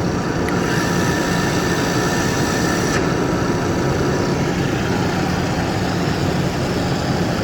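Gear-driven Johansson toolroom drill press running steadily in a low gear, about 105 rpm: an even machine hum with a faint steady tone above it.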